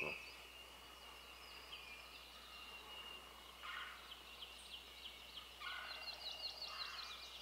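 Faint woodland birdsong: a thin, steady high trill with many short repeated chirps above it, and a couple of brief lower rattling calls.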